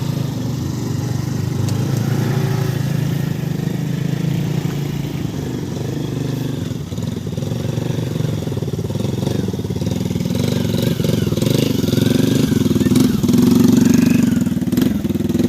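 Motorcycle engine running steadily under load, growing louder over the last few seconds.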